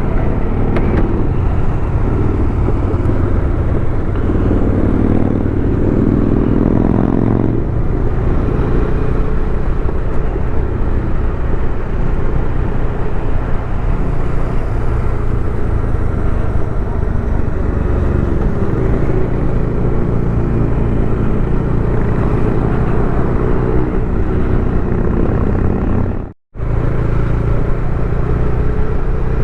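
Motorcycle engine running under steady road and wind noise, its pitch rising and falling in the middle stretch. The sound drops out for a moment near the end.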